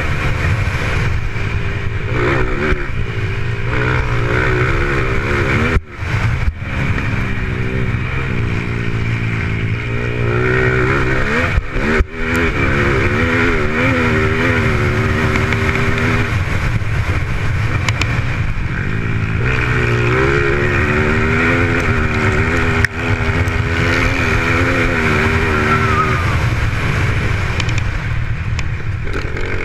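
Racing dirt-track motorcycle engines revving up and falling back again and again as the bikes race, with a few brief breaks in the sound.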